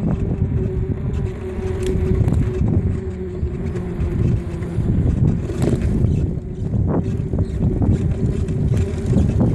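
Wind buffeting the microphone while riding a bicycle at speed: a low, steady rumble with a steady hum running through it and a few sharp knocks.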